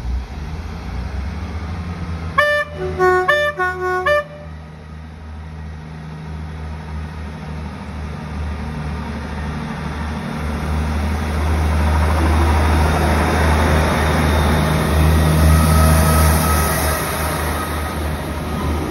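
Class 158 diesel multiple unit sounding its two-tone horn in three short blasts, about two and a half to four seconds in. Then the low throb of its diesel engines grows louder as the multi-car train rolls past.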